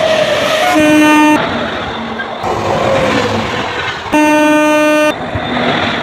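A train horn sounds twice, a short blast about a second in and a longer one at about four seconds, over the loud rushing noise of a train running past at speed. The noise cuts off suddenly at the end.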